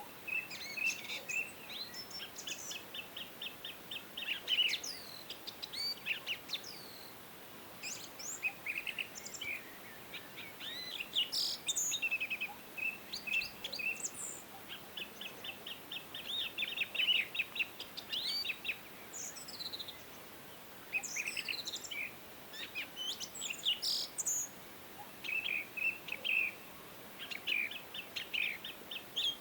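Several songbirds singing and calling together: fast trills of repeated notes and quick downward-sweeping chirps, over a faint steady background hiss.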